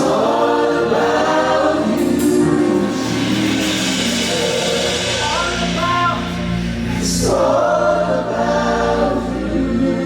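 Gospel worship music: a group of voices singing together over a sustained keyboard or bass accompaniment, with a deep bass note coming in about halfway through.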